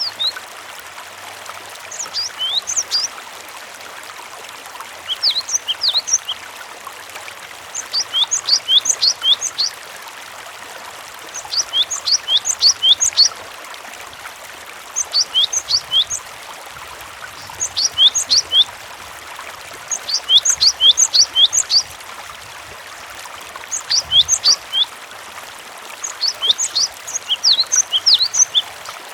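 Cinereous tit (gelatik batu) singing: short bursts of quick, high falling notes, one phrase every two to three seconds. Under it a steady trickle of running water.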